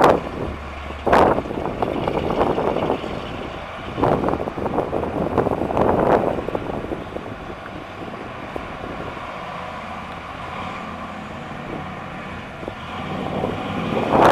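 1970 AMC AMX's 401 cubic-inch V8 running as the car is driven, with wind buffeting the microphone. Louder surges come about one, four and six seconds in, and a steadier, lower drone follows until the sound builds again near the end.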